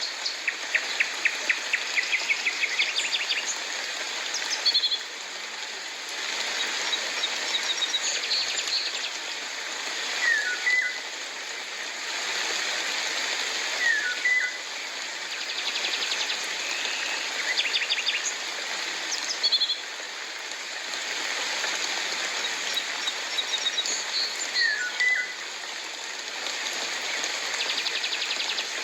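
Birds calling over a steady hiss of rain: short, sharp calls repeating every few seconds, with quick runs of rapid notes near the start and again in the middle.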